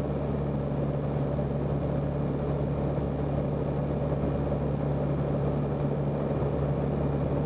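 Zenith CH 750 Cruzer's engine and propeller droning steadily in the cockpit, throttled back for the landing approach.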